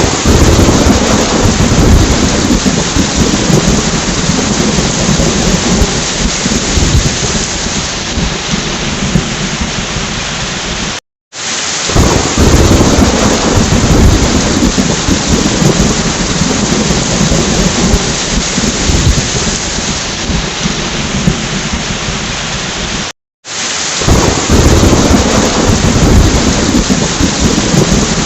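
Heavy rain with rumbling thunder, the low rumble strongest at the start of each stretch and easing off. The same storm recording repeats about every 12 seconds, dropping to silence for a split second at each join, about 11 seconds in and again about 23 seconds in.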